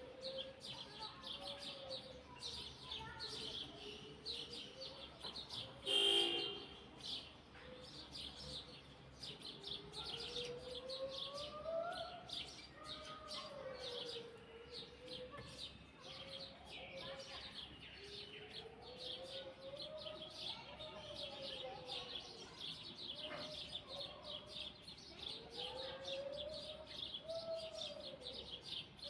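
A flock of small birds chirping rapidly and continuously, with a lower, smooth call gliding up and down every few seconds. A brief loud burst stands out about six seconds in.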